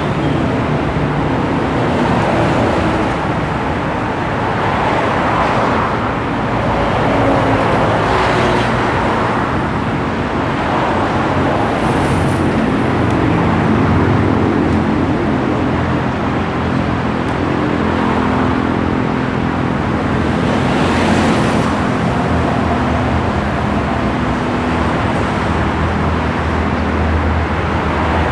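Road traffic: engines running steadily, with several vehicles swelling up and fading as they pass.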